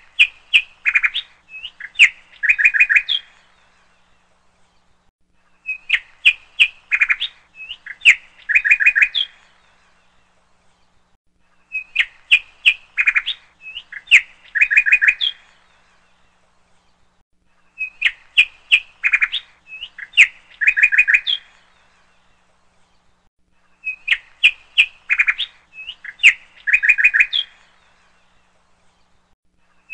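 Birds chirping in a repeating loop: a cluster of quick chirps and short trills lasting about three and a half seconds, then a pause, the same phrase coming back every six seconds.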